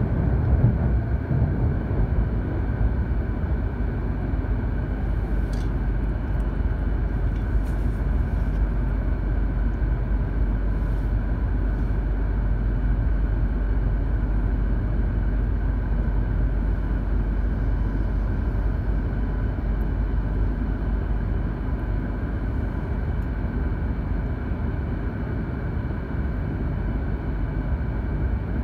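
Cabin running noise of an E2 series Tohoku Shinkansen train: a steady low rumble with a faint hum, easing slightly near the end as the train slows into a station.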